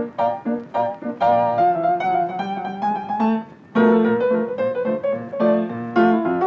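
Background music: a solo piano tune with a steady rhythm, pausing briefly a little past halfway.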